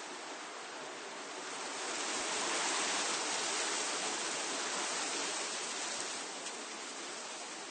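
Wind rushing through tree foliage, a steady hiss of leaves that swells into a stronger gust about two seconds in and eases back down a few seconds later.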